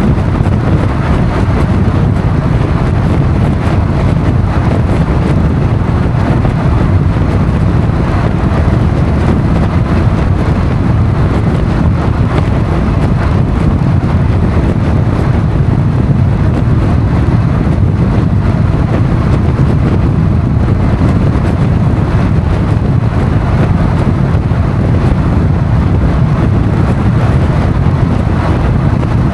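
Motorcycle riding at a steady speed: constant engine and road noise mixed with wind rushing over the microphone, with no gear changes or revving.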